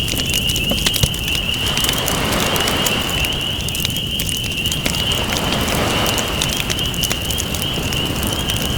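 Campfire crackling with many sharp pops over the slow wash of ocean waves that swell and fade every few seconds, with a steady high trilling tone throughout.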